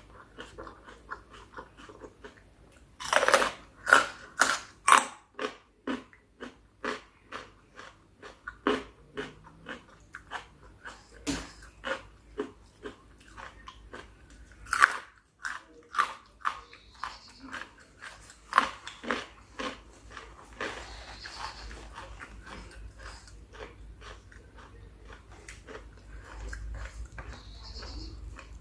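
Close-miked chewing of spicy chicken feet salad: repeated wet bites and crunching of the cartilage and skin, with a cluster of loud crunches a few seconds in and another about halfway, then softer, steadier chewing toward the end.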